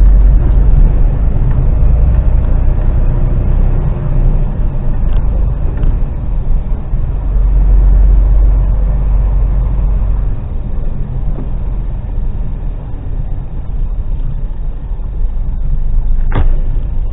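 Articulated lorry's diesel engine and road noise, a heavy low rumble that eases off about ten seconds in. A short sharp click comes near the end.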